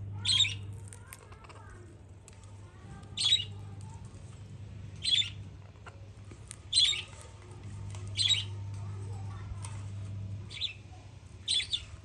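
Moustached parakeet giving short, harsh squawks, about eight of them, one every second or two, with two in quick succession near the end. A steady low hum runs underneath.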